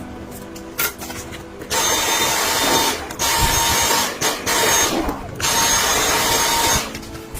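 A power tool running in about four bursts of a second or so with a hissing whine, starting about two seconds in.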